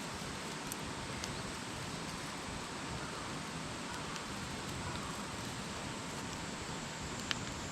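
Wood campfire burning: a steady hiss with scattered sharp crackles and pops, the loudest pop near the end.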